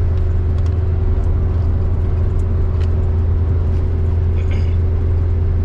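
Steady low drone of a minibus engine and road noise heard from inside the cabin, with a faint steady whine above it and a few small clicks.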